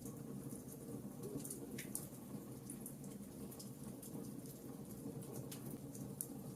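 Wood logs burning in a fireplace: a low, steady rush of flame with scattered sharp crackles and pops. The louder pops come about two seconds in and near the end.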